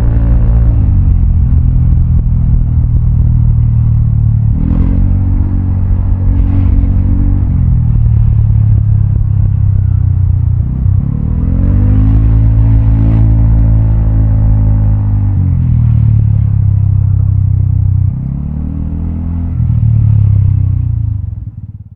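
Vespa automatic scooter's single-cylinder four-stroke engine, fitted with a Prospeed CNC aftermarket exhaust, accelerating and easing off again and again while riding, its pitch climbing and falling several times. It quietens about three quarters of the way through and drops away sharply near the end.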